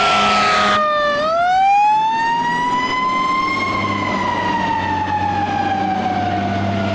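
Fire apparatus siren wailing: one slow cycle that rises in pitch to a peak mid-way, then slowly winds back down. A loud blaring horn-like sound under it cuts off just under a second in, and a low diesel engine hum comes up in the second half.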